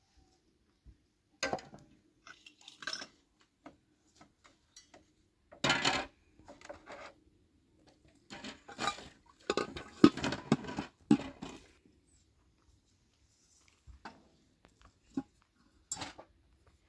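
Dishes and cutlery clattering: irregular clinks and knocks in short clusters, busiest in the middle and thinning out toward the end.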